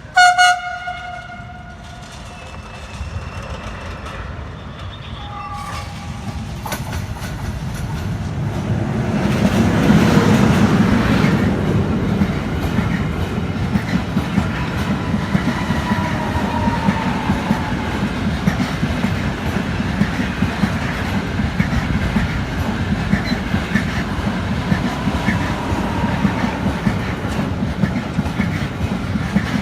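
A train sounds a short, loud horn blast, then approaches and passes on the rails, its rumble growing to a peak about ten seconds in and continuing steadily as the wagons clatter over the rail joints, with faint wheel squeal.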